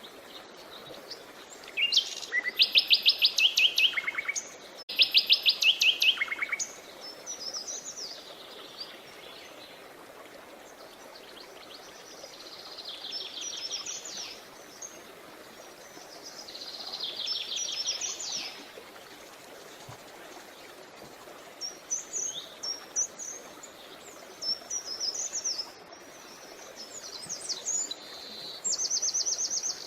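Songbirds singing in repeated fast trilled phrases, loudest in two bursts a few seconds in, with shorter, softer phrases later. Under them runs the steady murmur of a flowing creek.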